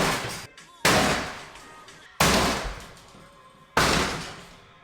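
Demolition blows smashing into a house's interior fittings: a series of heavy crashes about one every second and a half, each trailing off over about a second.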